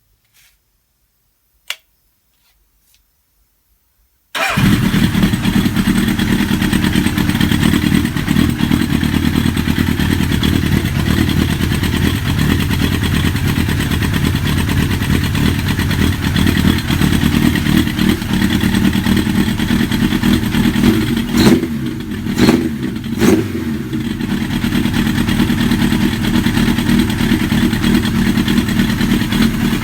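A single click, then a Suzuki GSX1100S Katana's air-cooled inline-four fires up about four seconds in and settles into a steady idle. It is briefly revved three times a little past the middle.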